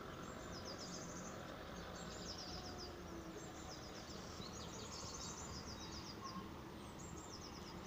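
Songbirds singing: short phrases of quick, high down-slurred notes, one phrase every second or so, over a faint steady background noise.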